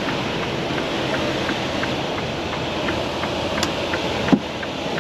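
Steady rain and wind noise with scattered faint ticks of drops, and a single sharp knock about four seconds in.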